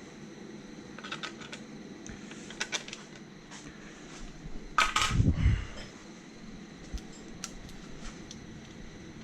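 Hand tools and small metal parts clicking and tapping irregularly while engine covers are unbolted, with one louder clunk of a metal part about five seconds in.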